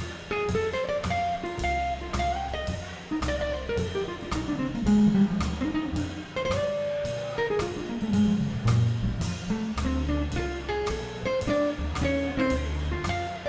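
Instrumental swing jazz: guitar over a walking bass line, with drums keeping a steady beat of about two strokes a second.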